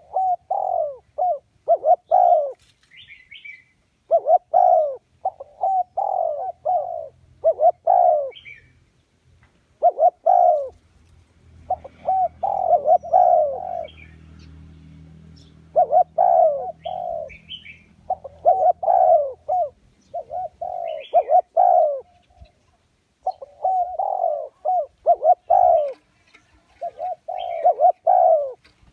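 Spotted dove cooing over and over in phrases of three or four low notes with short pauses between: a decoy call meant to lure wild doves to a trap.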